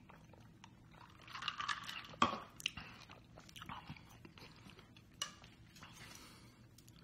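A man's mouth sounds as he drinks and eats: swallowing and chewing, with a few sharp clicks, the loudest about two seconds in.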